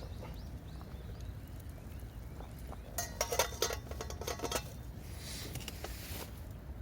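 A burst of clinking and rattling, hard objects knocking together, lasting about a second and a half from about three seconds in, followed by a soft hiss. A bird chirps briefly at the start.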